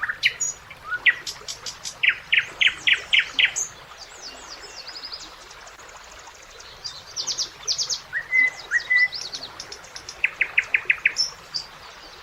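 Common nightingale singing: phrases of fast repeated notes, each run about half a dozen notes long, mixed with short whistles. There is a lull of a couple of seconds near the middle, over a faint steady hiss.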